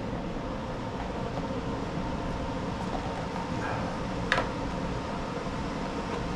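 Powermore 212cc single-cylinder engine of a Black Max pressure washer running steadily, running again after its stale fuel was cleaned out. A sharp click about four seconds in.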